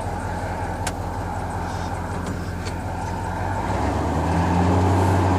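Mid-1970s farm truck's engine running at low revs, then revving up and getting louder about three and a half seconds in as it is taken off in first gear. A couple of light clicks come before the revs rise.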